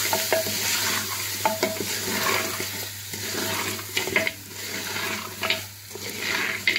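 Beef frying with spices in a clay pot, sizzling steadily while a wooden spoon stirs it. The spoon knocks sharply against the pot every so often.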